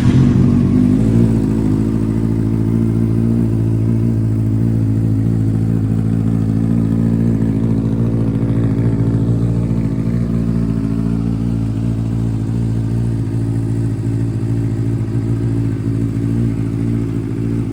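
Benelli 600 inline-four motorcycle engine idling steadily through an aftermarket SC Project exhaust, just after a cold start.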